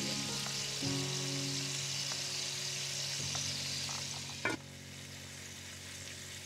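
Stuffed bitter gourds frying gently in oil in a clay pot: a steady sizzle. A single knock comes about four and a half seconds in, and after it the sizzle is quieter.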